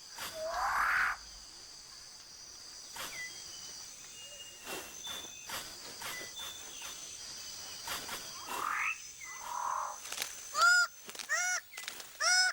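Tropical rainforest ambience: a steady high insect drone with scattered rising, sweeping bird calls. Near the end comes a run of loud, harsh bird calls repeated about twice a second.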